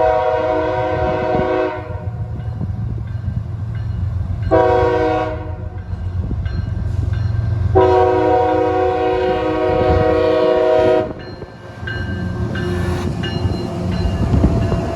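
CSX diesel freight locomotive's multi-note air horn blowing a long blast, a short one, then a second long one, over a steady low rumble from the train.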